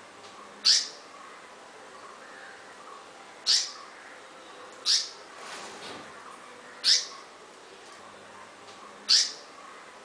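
A bird giving five short, harsh calls, spaced about one and a half to two seconds apart.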